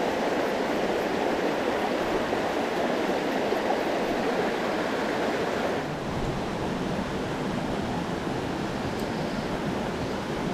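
Mountain stream rushing over rocks, a steady noise of running water that changes in tone about six seconds in.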